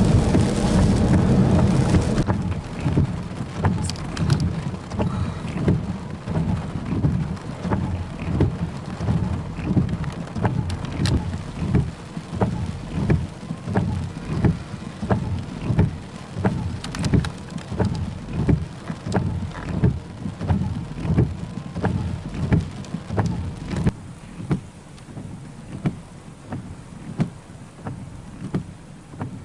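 Rain: a heavy downpour for the first couple of seconds, then easing to separate drops striking a surface, thinning and growing quieter near the end.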